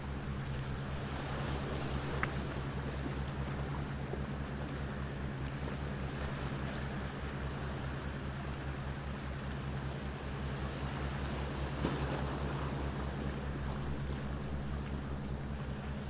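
Bonfire crackling with a couple of sharp pops, about two seconds in and near twelve seconds, over a steady wash of ocean waves and a low rumble.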